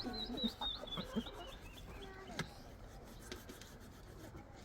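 Backyard chickens making low, short clucking calls, while a wild bird sings a quick run of high notes that step down in pitch over the first two seconds or so.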